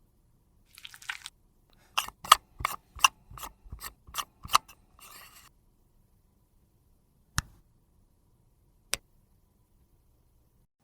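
Small tools and makeup containers handled close up: a short rustle, then a quick run of about ten sharp clicks, another brief rustle, and two single clicks later on.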